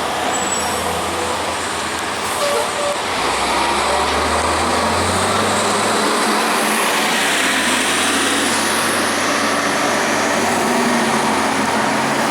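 Cummins ISC diesel engine and road noise of a 2002 Blue Bird CS transit bus with an Allison automatic transmission, heard from inside the cabin while it drives. The engine grows louder about three seconds in, then holds steady.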